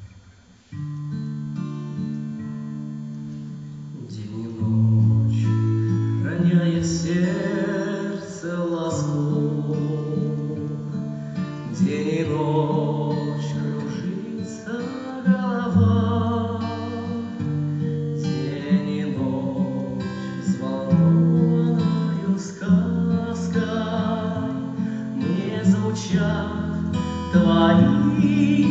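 A song with guitar accompaniment starts about a second in. A singing voice comes in about four seconds later.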